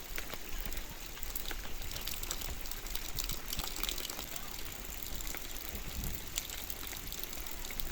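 Heavy rain falling steadily, an even hiss dotted with the sharp ticks of drops striking and splashing.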